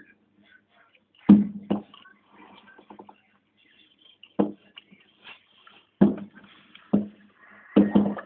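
Fireworks exploding overhead: a series of about seven sharp bangs at uneven intervals, some in quick pairs, each dying away quickly.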